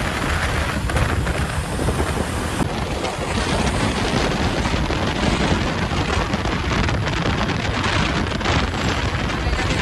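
Loaded truck on the move: a steady, loud mix of engine and wind noise.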